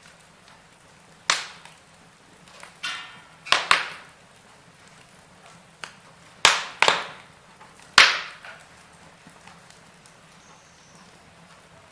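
Wood fire burning in a fireplace, with about six sharp, loud pops and cracks from the burning logs spread through, over a faint steady background.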